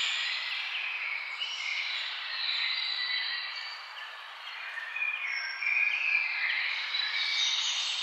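Several birds singing at once, many short whistled notes at different pitches overlapping, over a steady hiss.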